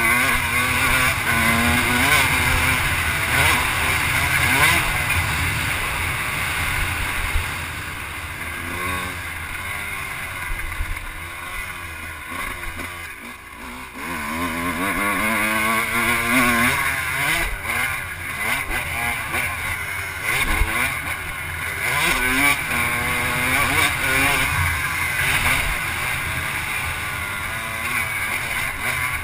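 Off-road vehicle engine revving up and down as it is ridden around a motocross track, its pitch rising and falling with the throttle. About halfway it drops off briefly, then builds up again.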